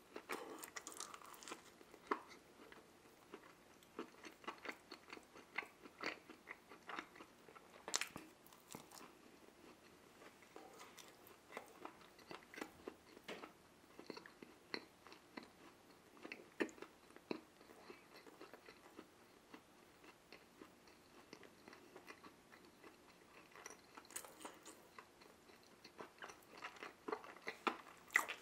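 Close-miked chewing of a soft, sprinkle-topped mini donut: faint, irregular mouth clicks and smacks.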